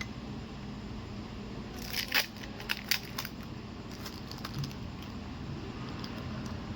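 Small tools and phone parts being handled during a smartphone display replacement: a few sharp clicks and scrapes about two to three seconds in, fainter ones later, over a steady low hum.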